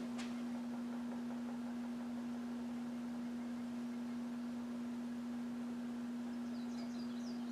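A steady hum on one constant pitch, like a running appliance or electrical hum, with a few faint high bird chirps near the end.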